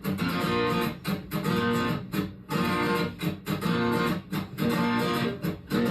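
Guitar strumming chords in a choppy rhythm, the chords broken by brief stops.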